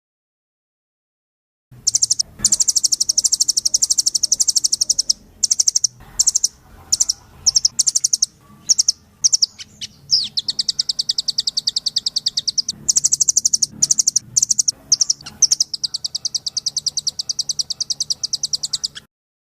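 A rambatan (nuthatch) songbird in full continuous song: long, fast, high trills of rapidly repeated notes. They start about two seconds in, break into short separate calls for a few seconds in the middle, and cut off just before the end.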